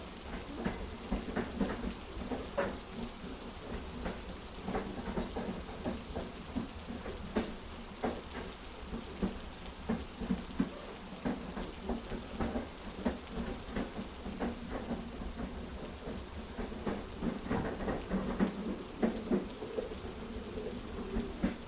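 Heavy rain mixed with a train's low rolling rumble, with many short irregular clicks and taps throughout.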